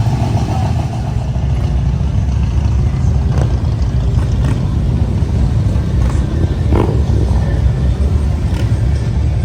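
Motorcycle engines running in a steady low drone, with a few light knocks.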